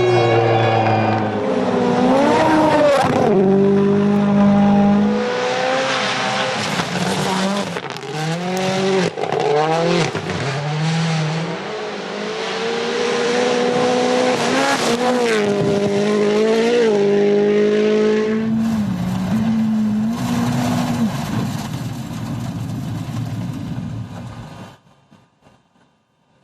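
Rally car engine at high revs, its pitch repeatedly climbing and then dropping sharply as gears change and the driver lifts. The sound cuts off abruptly about two seconds before the end.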